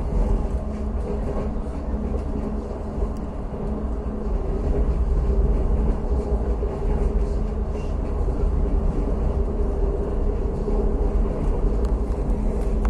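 Push-pull passenger train running along the track, heard from on board: a steady low rumble of wheels and running gear with a constant hum, getting somewhat louder about four and a half seconds in.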